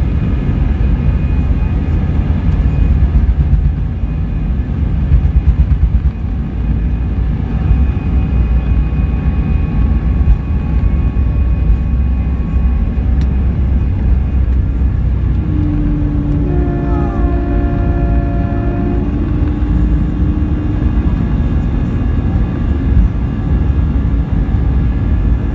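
Airbus A319 jet airliner's engines running with a heavy low rumble and several steady whining tones. From about 15 to 21 seconds in, an extra cluster of steady tones sounds over the rumble and then stops.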